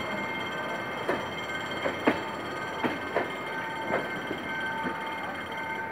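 Passenger train coaches rolling slowly along the platform as the train brakes to a stop, with a steady high brake squeal. About seven irregular sharp clanks from the running gear, the loudest about two seconds in.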